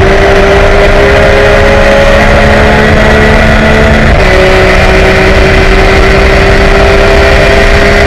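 Porsche race car's engine heard loud from inside the cockpit, running at a steady pitch with a small shift in pitch about four seconds in.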